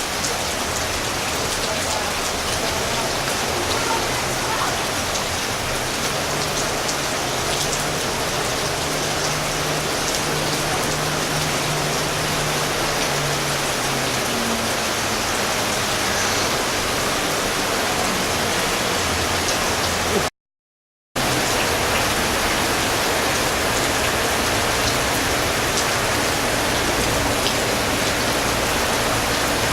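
Steady hiss of water from the flood, heavy rain or rushing floodwater, with a faint low hum for several seconds early on. The sound cuts out completely for under a second about twenty seconds in.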